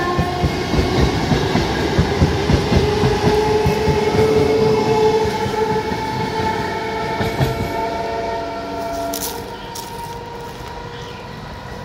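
Electric multiple-unit suburban local train passing close by, its wheels clattering over the rail joints over a steady electric whine. The sound fades near the end as the last coach draws away.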